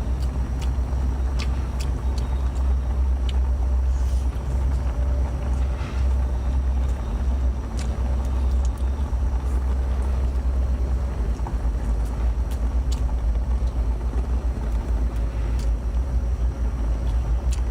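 Steady low rumble with faint scattered clicks over it.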